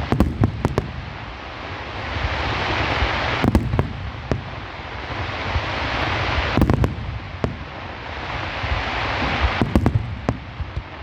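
Fireworks display: sharp bangs of bursting shells, a few at the start and then about every three seconds, with swells of crackling hiss between the bursts.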